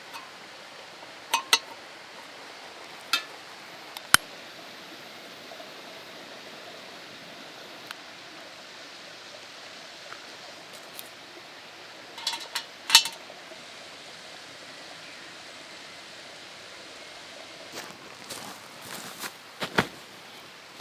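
Camp cookware and utensils clinking and knocking now and then, a few sharp clinks early on, a pair of louder ones around the middle and a cluster of knocks near the end, over a steady faint hiss.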